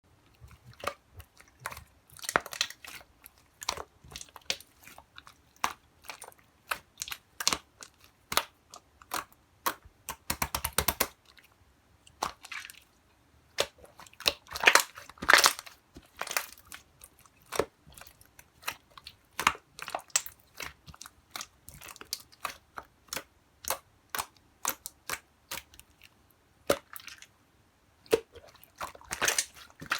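Translucent slime being played with by hand: a run of sharp clicks and pops from squeezed air bubbles, with a few longer crackling squishes, the loudest about halfway through.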